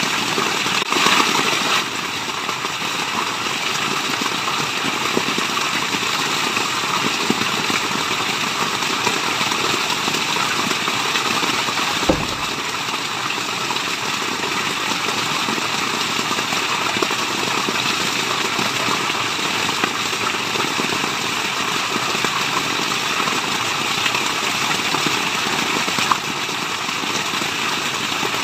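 Waterfall: a steady, even rush of falling water, with a brief low thump about twelve seconds in.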